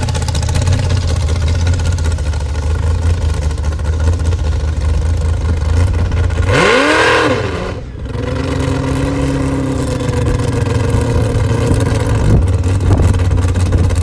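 Front-engine dragster's engine idling loudly and steadily. About halfway through it is revved once, quickly climbing in pitch and falling back, then it settles to idle again.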